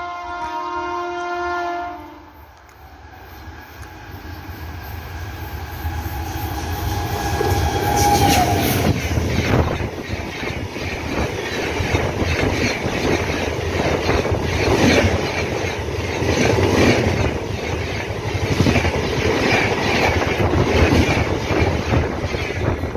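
An express train's horn sounds a steady multi-tone chord that cuts off about two seconds in. The train then draws closer, growing louder, and its horn sounds once more shortly before it arrives. From about nine seconds the Shatabdi-type LHB passenger coaches pass at speed with a loud rumble and a rapid clickety-clack of wheels over rail joints.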